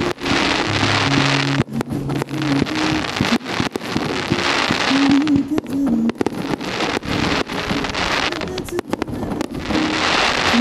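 Fireworks going off over a lake in a rapid run of bangs with a dense crackling hiss. Music with a melody plays underneath.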